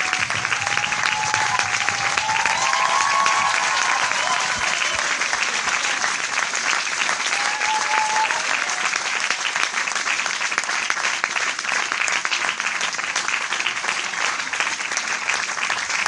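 Large audience applauding, many hands clapping in a dense, steady wash with no break, with a few faint voices from the crowd in the first few seconds and again about eight seconds in.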